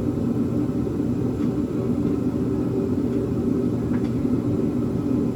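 Steady low rumbling hum of constant background noise, with a faint click about four seconds in.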